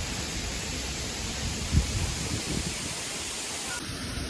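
Steady rushing of a waterfall, an even hiss of falling water, with a few low bumps on the microphone, the loudest about two seconds in.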